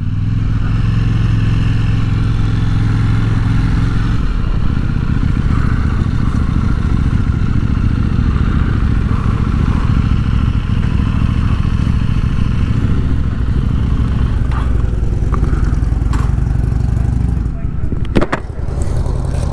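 KTM motorcycle engine running at low speed, its note steady for the first few seconds and then rougher, stopping a couple of seconds before the end, followed by a few sharp clicks. Voices are heard in the background.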